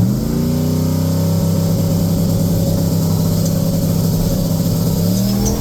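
Turbocharged LS V8 of an OBS Chevy pickup running at a steady speed, its note starting to rise near the end along with a faint high whine that climbs in pitch.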